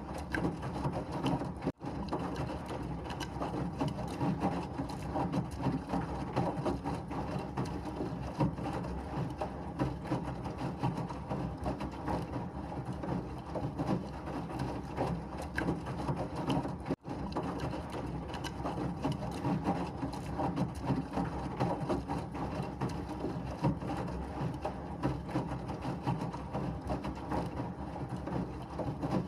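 Washing machine running steadily: a dense, continuous mechanical churning with a low rumble. It cuts out for an instant twice, about two seconds in and again about seventeen seconds in.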